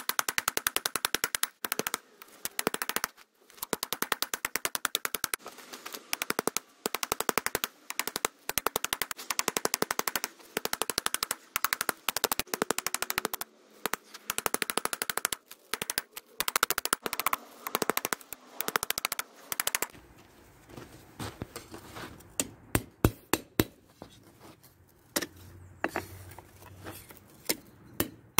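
Hammer blows on steel in very rapid runs with short breaks between them. About twenty seconds in they change to slower, separate blows spaced irregularly, as the blade is forged.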